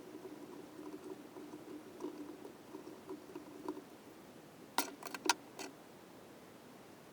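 Small handling sounds: an irregular soft patter for about four seconds, then a quick run of four sharp clicks about five seconds in.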